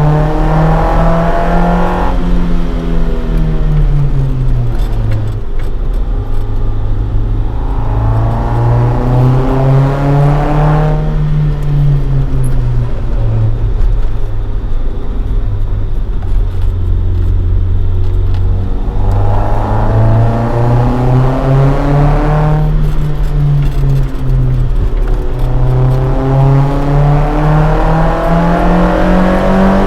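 Toyota AE86 Sprinter Trueno running a swapped AE111 20-valve four-cylinder on individual throttle bodies, through a Fujitsubo Legalis R exhaust, being driven hard. The engine note climbs and then drops sharply four times, with a longer stretch of steady low revs in the middle.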